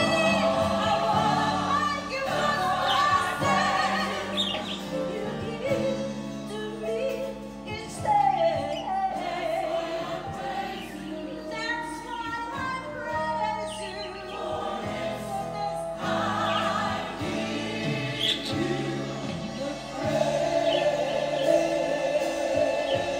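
Gospel choir music with singing voices.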